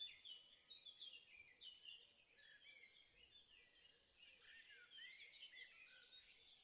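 Faint birdsong: several small birds chirping in quick, overlapping high notes.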